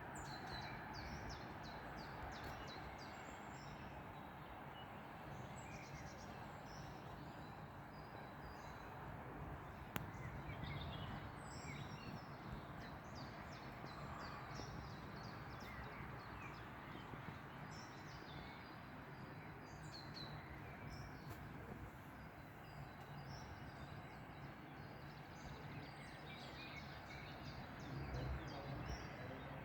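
Small birds chirping and twittering on and off over a steady low outdoor rumble, with a single sharp click about ten seconds in.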